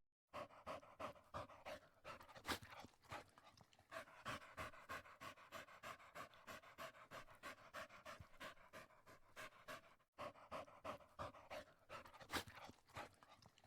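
A dog panting: faint, quick, even breaths about three or four a second, with a brief break about ten seconds in.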